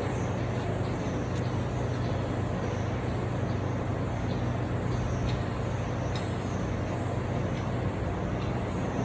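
Swimming-pool heat pump running steadily: a constant low hum with even machine noise from its compressor and fan.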